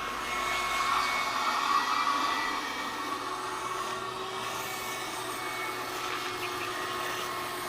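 Garden hose spraying a light stream of water onto a car's soapy body panels to rinse off the soap: a steady hiss and splash, a little louder in the first two seconds or so.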